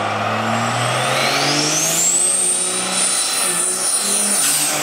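Turbocharged diesel drag truck under power: a turbo whine rises steeply about a second in and holds high over the engine's running, dropping away near the end.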